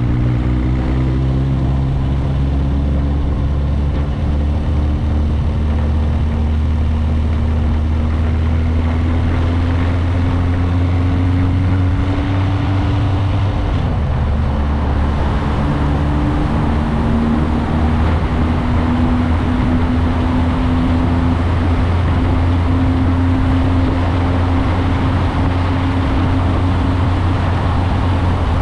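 Motorcycle engine running on the move, with wind and road noise. The engine's pitch climbs slowly, drops sharply about halfway through, then steps back up and holds.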